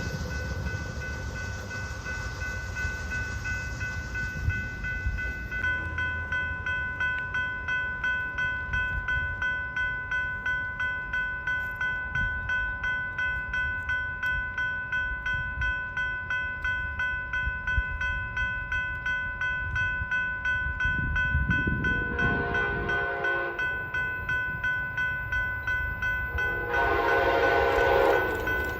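A railroad grade-crossing bell starts ringing about six seconds in, a steady repeating ding, over a low rumble. Near the end an approaching train's horn sounds twice, a short blast and then a longer one.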